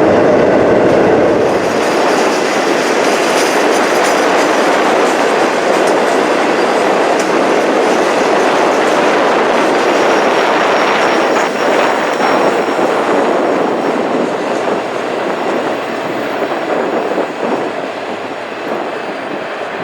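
Freight train cars rolling past, steel wheels rumbling and clacking on the rails in a steady run that eases off slightly near the end.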